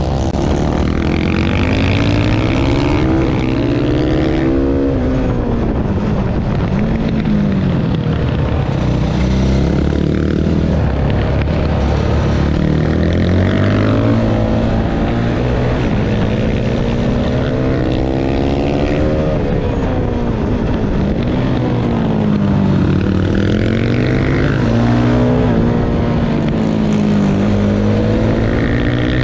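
Supermoto motorcycle engine on track, revving up and down over and over as the bike accelerates and slows, its pitch rising and falling every few seconds.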